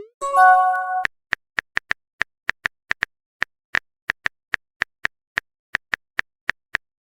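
A short phone message chime, a brief held chord, followed by a run of about twenty sharp smartphone keyboard tap clicks, a few a second and unevenly spaced.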